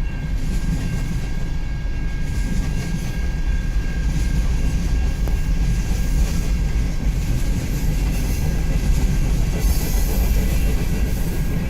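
Freight train passing close by: a steady heavy rumble of tank cars and lumber cars rolling over the rails, with a thin steady squeal from the wheels.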